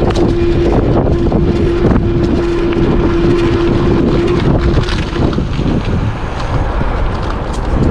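Wind buffeting a helmet-camera microphone as an e-bike rolls along a leaf-covered woodland trail, with small knocks and rattles from the bumpy ground. A steady hum runs under it and stops about four and a half seconds in.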